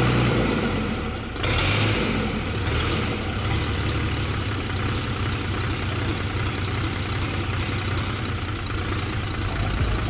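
Freshly overhauled Ashok Leyland H-series 180 HP diesel bus engine running steadily, with a brief drop in level about a second in.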